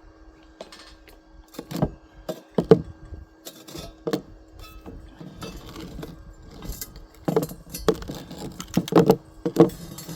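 Metal parts clanking and knocking as they are handled and set down, a string of sharp knocks that comes thickest near the end, over a faint steady hum.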